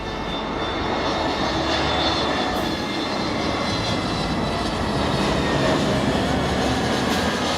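Jet engines of an Airbus A321neo, CFM LEAP-1A turbofans, running as the airliner passes: a steady rush of engine noise that grows louder over the first second or two and then holds.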